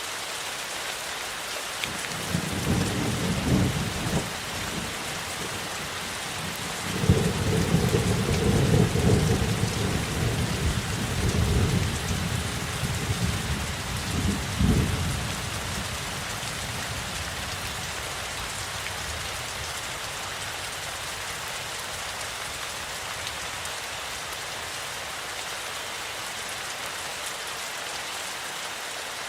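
Steady heavy rain with rolling thunder: a short rumble about two seconds in, then a longer, louder roll that starts sharply about seven seconds in and dies away by about fifteen seconds.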